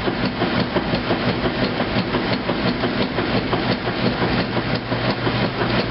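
2008 Kenmore top-loading washing machine running its heavy duty wash, a steady motor hum under a fast, even run of knocks and clacks from the tub and drive.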